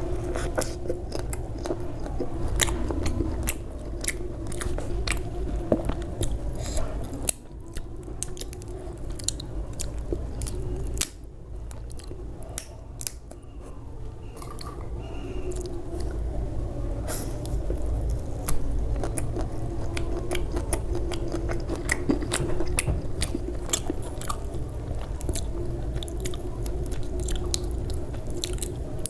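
Close-miked eating: a person biting and chewing food, with many short crunchy clicks and crackles throughout.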